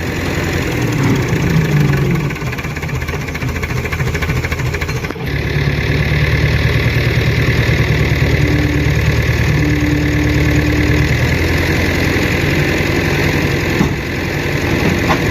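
Fordson Super Major tractor's four-cylinder diesel engine running steadily at idle. About five seconds in the sound breaks off for an instant and comes back a little louder.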